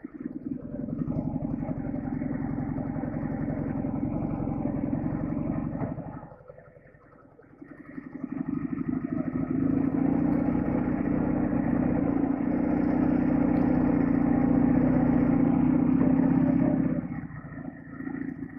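Heavy Soviet boxer-twin sidecar motorcycle engine running under load, dropping away about six seconds in, then pulling again louder for most of the rest before easing off near the end.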